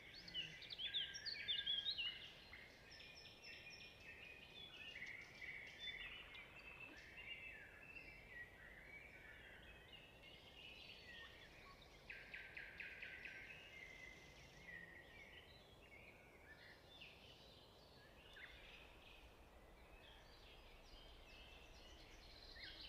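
Faint birdsong: birds chirping and trilling in short, quick calls throughout.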